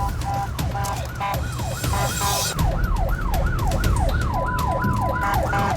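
Police car electronic siren: it first alternates between two pitches, then switches to a fast yelp of falling sweeps, about three a second, with a short steady tone near the end.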